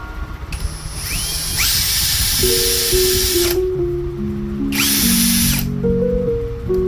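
Ingco electric drill run free in two bursts, the first about three seconds and the second about one second, each starting with a rising whine as the motor spins up. Background music with a simple melody plays throughout.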